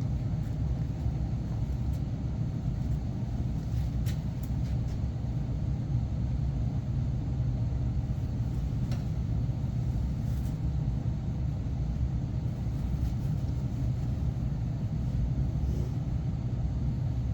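Steady low rumble of boiler-room machinery, unchanging throughout, with a few faint clicks.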